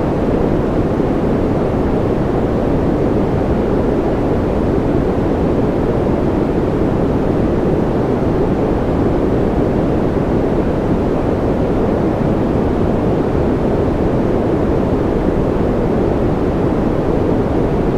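Steady sleep-aid white noise: an even, unchanging rush with no pattern or pauses. It sounds deeper and softer than a bright hiss, with most of its weight in the low and middle range.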